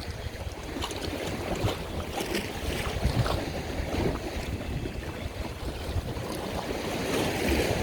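Wind buffeting the microphone over splashing waves, with an irregular low rumble.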